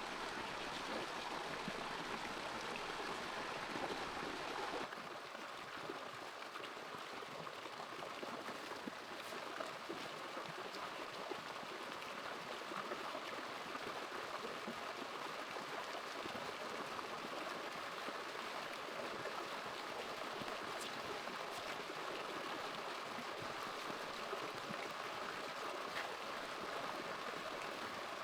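Steady rush of flowing stream water, with a slight change in its tone about five seconds in.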